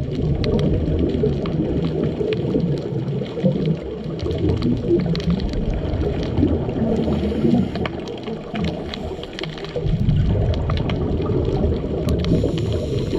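Underwater sound picked up by a GoPro in its waterproof housing: a muffled low rumble with scattered faint clicks, swelling louder about ten seconds in.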